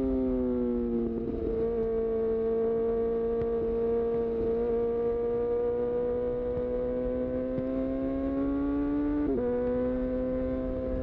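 2018 Honda CB1000R's inline-four engine through a full-system Black Widow exhaust, heard from the saddle. The revs ease down over the first second or so, then climb slowly under light throttle. About nine seconds in they drop sharply with a quickshifter upshift, then hold steady.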